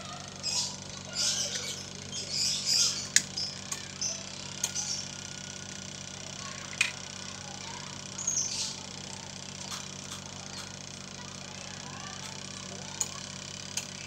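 Small birds chirping in short bursts, mostly in the first few seconds and again just past the middle, with several sharp, separate clicks over a steady low hum.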